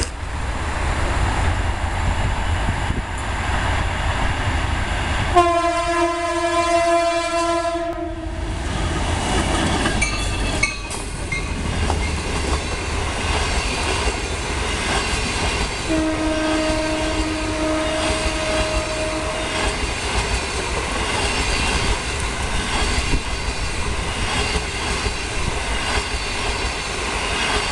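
EMD GT22CW-3 diesel locomotive hauling a passenger train past at speed, sounding one long horn blast about five seconds in and a second, quieter blast later. Under it the train runs with a steady rumble and the coaches' wheels clack over the rail joints as they go by.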